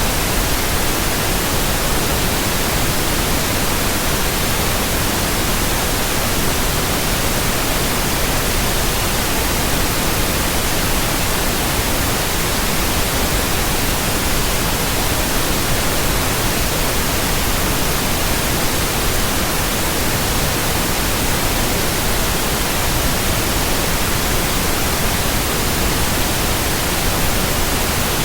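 Synthetic white noise: a steady, even hiss spread across all pitches, loud and unchanging.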